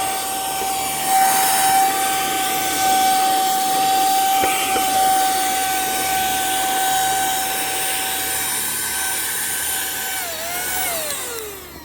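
KMM cordless handheld vacuum running with a steady whine over a rush of air as it vacuums debris. Near the end it is switched off and the whine falls in pitch as the motor winds down.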